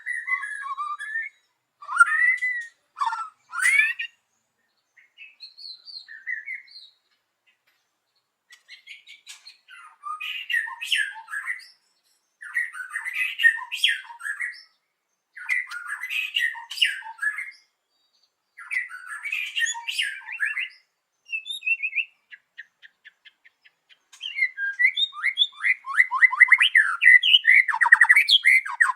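White-rumped shama singing: varied phrases in bursts a second or two long, separated by short pauses, then a dense run of fast repeated notes in the last few seconds.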